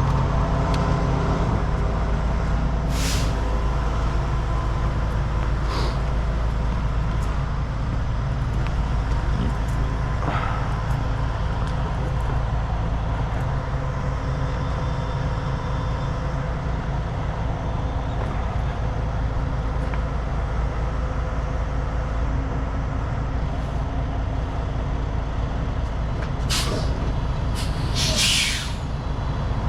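Heavy diesel truck engine running steadily, with short hisses of released air a few times, the longest and loudest about a second long near the end.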